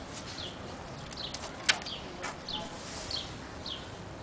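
A small bird chirping over and over, short falling chirps about twice a second, with one sharp click a little under two seconds in.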